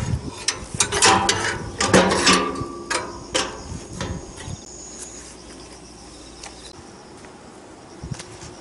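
Metal clanking and scraping: a quick run of sharp knocks with brief ringing in the first few seconds, then quieter.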